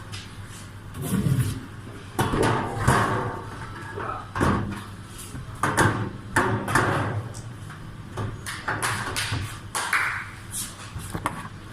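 A microwave's sheet-metal outer cover being slid back on and fitted to close the unit: irregular scraping and several sharp metal knocks.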